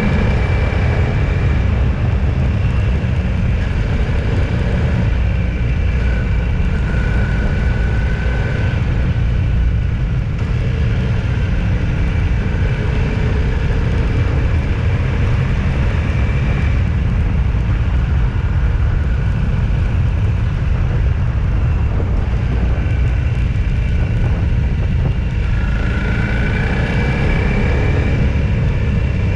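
Steady low rumble of road and engine noise from a vehicle driving along a road, with faint high steady tones above it.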